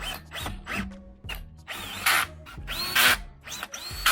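Handheld power tool running lug nuts onto a wheel in several short bursts, each rising in pitch as the motor spins up, about one a second.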